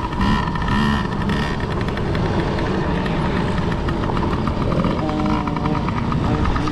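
Youth dirt bike engines running hard as the kids race around the motocross track. The engine tone is steady, with one engine's drone becoming more prominent about five seconds in.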